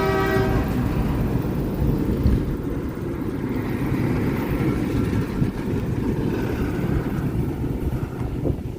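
A train's steady low rumble as it runs by, with a pitched, horn-like tone that stops about half a second in.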